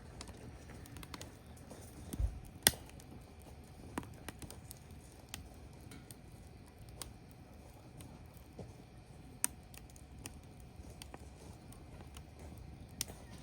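Firewood burning, crackling with irregular sharp pops over a faint steady hiss; the loudest pop comes a little under three seconds in.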